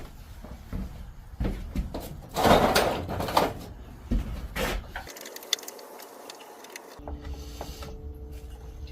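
Clicks, knocks and a scraping rustle from hand tools and plastic engine parts as the breather tube and plastic cover are worked loose. The loudest is a scraping rustle about two and a half seconds in.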